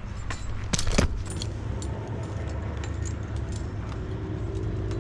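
Metal clinking and clicking of a tree climber's hardware, such as carabiners and rigging gear, with the strongest clinks about a second in. A steady low rumble runs underneath.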